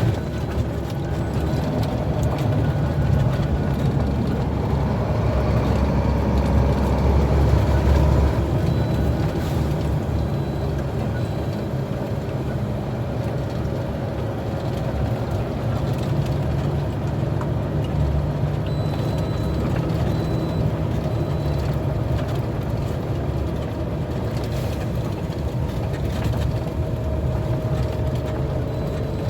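Heavy truck engine running under way with steady road noise, the low rumble swelling for a few seconds near a quarter of the way in.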